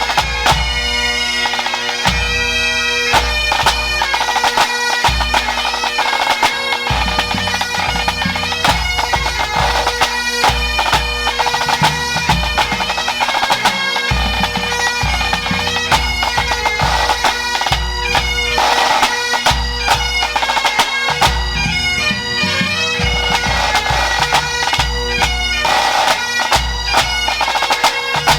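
Pipe band playing: Great Highland bagpipes carry a tune over their steady drones, while the band's drums beat along with sharp snare strokes and low bass-drum thumps.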